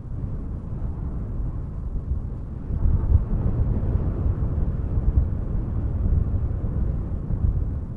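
Wind buffeting the microphone: a loud, gusty low rumble that grows stronger about three seconds in.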